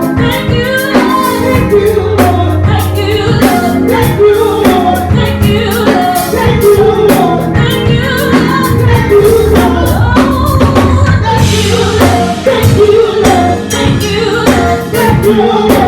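Live gospel worship music: singing over a band with drum kit and bass keeping a steady beat.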